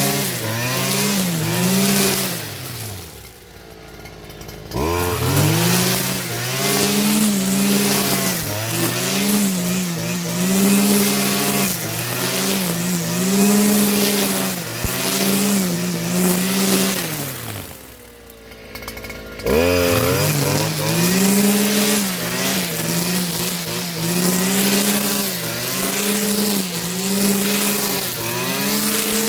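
Small two-stroke string trimmer engine running at high revs while cutting tall grass, its pitch wavering up and down under the load. Twice the throttle is let off, the engine winding down and going quieter, then it is snapped open again and the revs jump back up.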